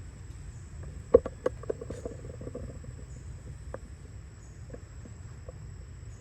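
Steady high-pitched insect drone over a low rumble, with a quick run of short sharp clicks and taps about a second in and a few single ticks later.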